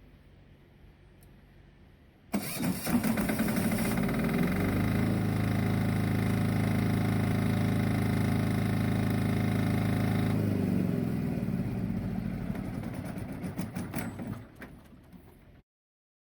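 Small backup diesel generator started by its remote-start switch: about two seconds in it cranks and fires, settling into a steady run. About ten seconds in it is shut off and its note falls away as it runs down to a stop.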